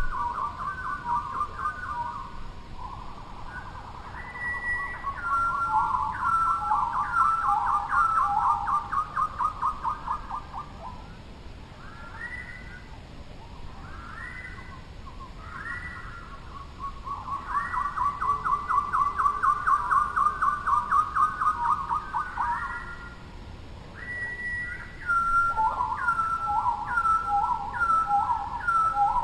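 A bird singing loud whistled phrases, repeated again and again: short notes stepping down in pitch alternate with fast trills. The song comes in spells with brief lulls between them.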